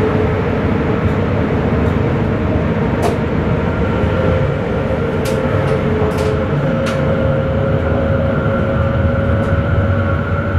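Sprinter electric multiple unit running at speed, heard from the driver's cab: a steady rumble with a motor whine whose tone rises slowly, and a few short sharp clicks in the middle.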